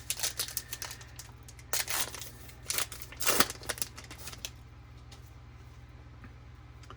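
Baseball trading cards and their pack wrapper being handled: a run of quick flicks, snaps and crinkles for the first four seconds or so, then stillness over a steady low hum.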